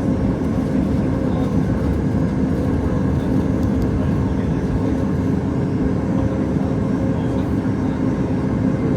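Steady cabin noise of a Boeing 737 MAX 8 with its CFM LEAP-1B jet engines running, a deep even rumble with a steady hum.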